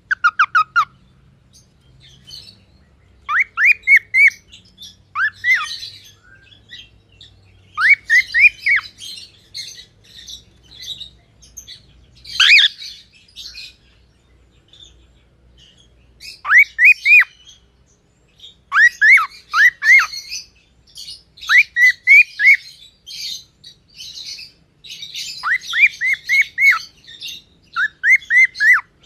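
Birds calling in quick runs of two to five short chirps, each chirp rising then falling in pitch, over a scratchier chatter, with brief pauses between runs.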